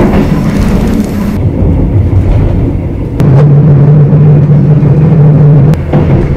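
Passenger train running, heard from inside the carriage: a loud, steady low rumble of wheels and running gear on the track. A steadier hum sets in about three seconds in, and a sharp knock sounds near the end.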